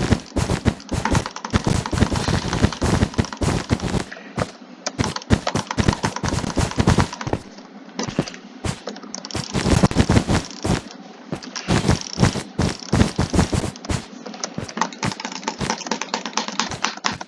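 Rapid, irregular clicking, thick in some stretches and thinning out briefly about four seconds in and again around eight seconds in.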